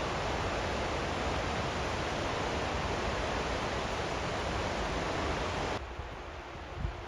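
Steady rushing noise of Brandywine Falls, a waterfall, that drops suddenly about six seconds in to a quieter, duller rush.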